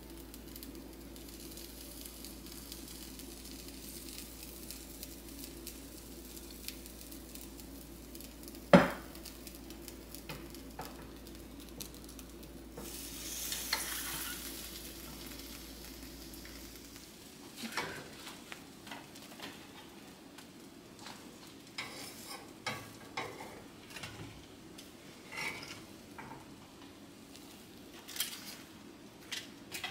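Batter and butter sizzling in a fish-shaped boong-eo-bbang mold pan, with a single sharp metal clack about a third of the way in and a swell of hissing near the middle. In the later part come light clinks and taps of metal tongs lifting the pastries onto a wire cooling rack.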